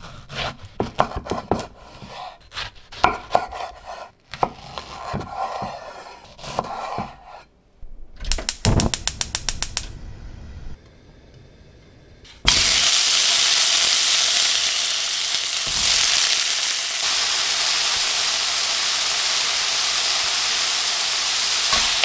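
A kitchen knife cuts through tomatoes on a wooden cutting board, a string of separate cuts and knocks with a fast run of knocks about eight seconds in. After a short near-quiet, a sudden loud, steady sizzle starts about halfway through as tomato pieces fry in hot oil in a frying pan and are stirred with a wooden spatula.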